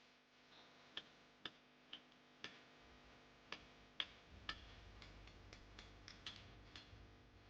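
Faint sharp ticks, roughly two a second and uneven in strength, over near silence.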